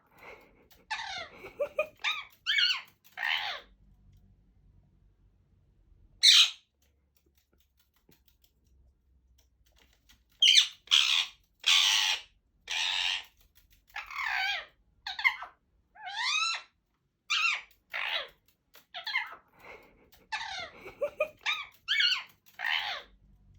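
Indian ringneck parakeets squawking and chattering in short shrill calls. A cluster of calls comes first, then a single loud screech about six seconds in, then a long run of squawks and rising whistles from about ten seconds on.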